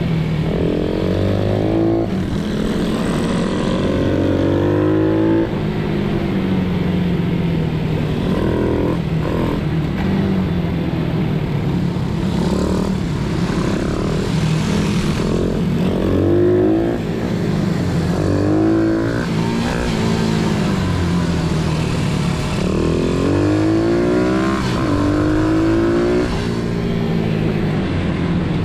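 Pit bikes running, their small motorcycle engines revving up again and again in rising sweeps, as if accelerating through the gears, over a steady lower engine drone.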